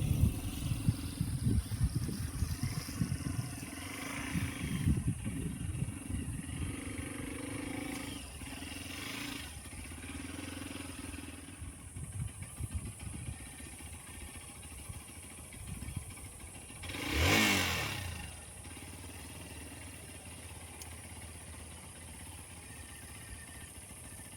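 A motorcycle engine running at low speed with an uneven rumble. About two-thirds of the way through comes one brief louder surge that falls in pitch. A steady high hiss sits underneath.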